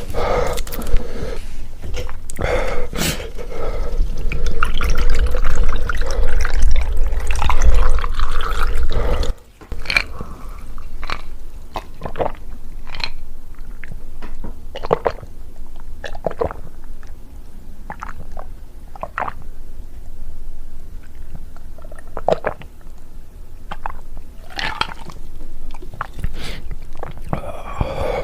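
Close-miked mouth sounds of eating: about nine seconds of wet, liquid-sounding noise with heavy low rumble, then a string of short, sharp wet clicks and smacks every second or so.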